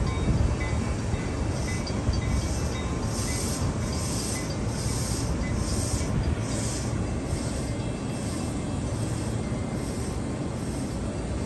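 Train noise at a station platform: a steady low rumble. For the first several seconds a run of evenly spaced high squeals, about one every half second or so, sits over it and then fades out.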